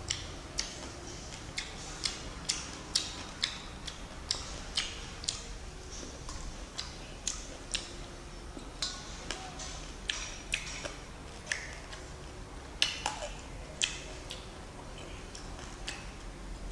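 Close-up chewing of juicy fruit, grapes and mandarin orange segments: sharp, wet mouth clicks and smacks at an uneven pace, roughly two a second, with one louder smack about three quarters of the way through.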